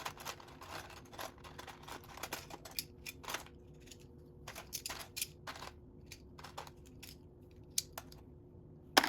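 Loose plastic Lego pieces clicking and rattling as they are rummaged through by hand, with a sharper click just before the end.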